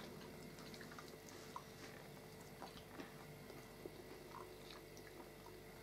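Faint eating sounds: quiet chewing with a few small, soft clicks scattered through, over a faint steady hum.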